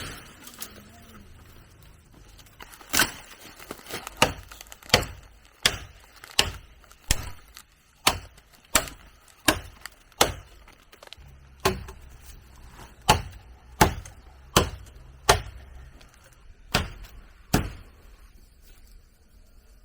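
A blade chopping into wood in a steady rhythm: about twenty sharp strokes, one roughly every 0.7 seconds. The strokes start about three seconds in and stop a couple of seconds before the end.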